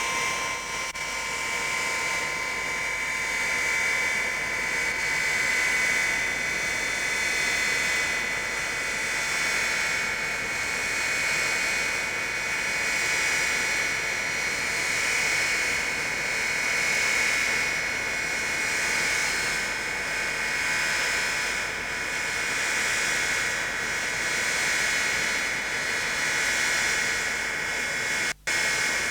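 Avro Vulcan B2's four Olympus turbojet engines running with a steady, high whine over a rushing roar, swelling and easing slowly in loudness. The sound drops out for an instant near the end.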